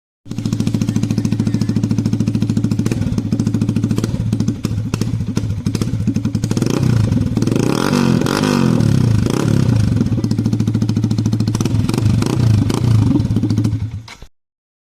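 Yamaha R15 V3's 155 cc single-cylinder engine running through an Akrapovic slip-on exhaust. It idles steadily, then is revved up and down several times in the second half before it cuts off abruptly near the end.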